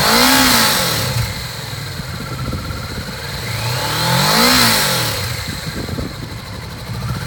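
Kawasaki Vulcan S 650 liquid-cooled twin-cylinder engine revved twice from idle, its pitch rising and falling about a third of a second in and again about four and a half seconds in.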